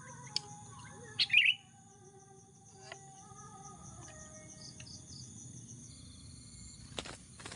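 Sooty-headed bulbuls calling, with a short loud burst of chirps about a second in. Insects buzz steadily in the background.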